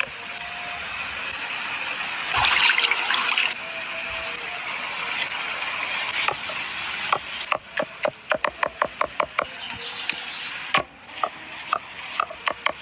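Water running or pouring with a steady hiss, then, about seven seconds in, a quick series of sharp knocks, roughly four a second.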